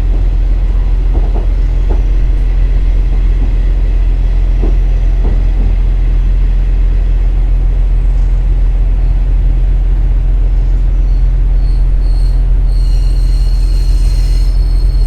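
KiHa 47 diesel railcar running, heard from inside: a steady low drone from the diesel engine and wheels, with a few rail-joint clicks in the first seconds. A high-pitched squeal comes in about twelve seconds in and holds to the end.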